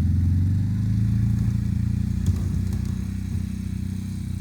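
CFMoto UForce 800 side-by-side's V-twin engine running under load while plowing snow, its drone easing slightly over the few seconds, with a single sharp clack about two seconds in.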